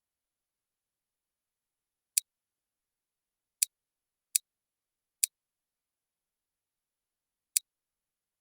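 Five short, sharp clicks at irregular intervals, with silence between them.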